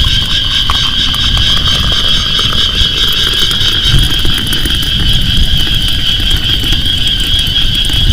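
Loud, steady high-pitched chorus of night insects in a rainforest, with an irregular low rumble underneath.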